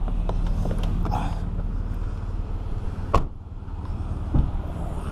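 Car engine running steadily with a low hum, with a sharp click about three seconds in and a softer knock about a second later.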